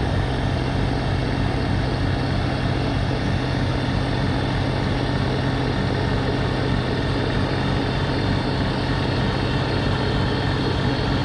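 Diesel tractor engine running steadily under load while it drives a front-mounted snowblower through deep snow.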